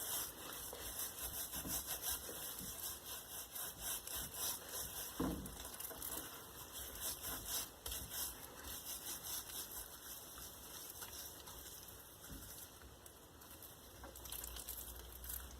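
Gloved hands rubbing salt and pepper into a raw steak: a run of repeated scratchy rubbing strokes, getting softer toward the end.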